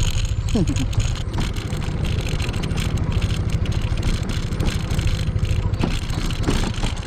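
Motor scooter riding along, its engine running under a steady low rumble of wind and road noise.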